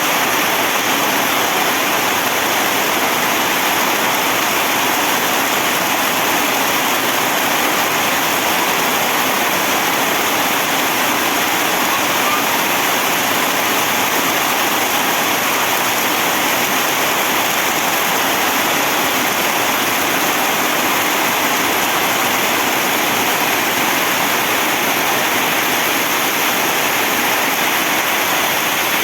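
Heavy rain falling in a steady downpour: a dense, even hiss without a break.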